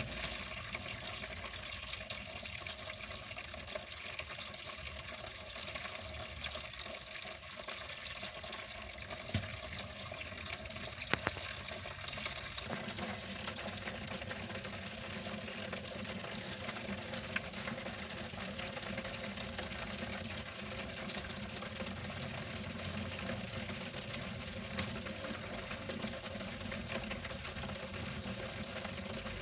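Water flowing steadily, a continuous running splash like a tap or small stream, growing a little fuller and lower about thirteen seconds in, with a few faint clicks.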